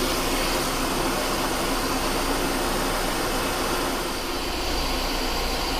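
Metal lathe running steadily while turning a steel shaft, a continuous mechanical hum and hiss; a deeper hum comes in about four seconds in.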